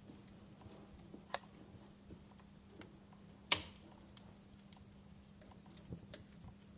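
Wood fire in a fireplace crackling, with scattered small pops and one sharper, louder pop about three and a half seconds in.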